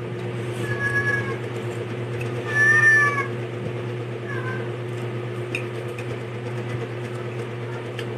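A cat meowing three times, the second call the loudest, over a steady low hum.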